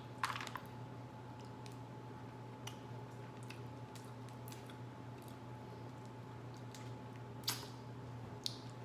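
Scattered cracks, clicks and soft squishes of boiled seafood shells being broken and peeled by hand, with louder cracks just after the start and about seven and a half seconds in, over a steady low hum.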